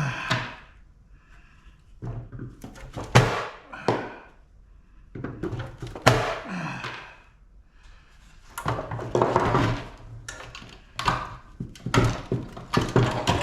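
Clanks and thuds of metal parts being knocked and handled while a scrap air-conditioning unit is dismantled, coming in bunches every two or three seconds with short quiet gaps between.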